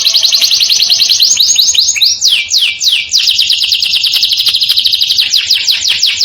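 Domestic canary singing a fast rolling trill of rapid, high falling notes. About two seconds in it breaks into a few slower, longer downward sweeps, then goes back to the fast roll.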